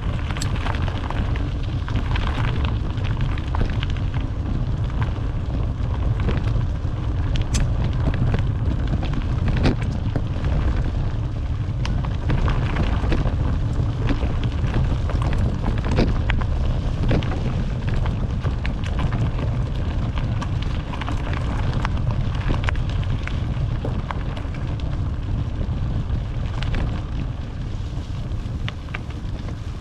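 Wind buffeting a GoPro action camera's microphone while cycling: a steady low rumble, with scattered clicks and rattles from the bike riding over bumps.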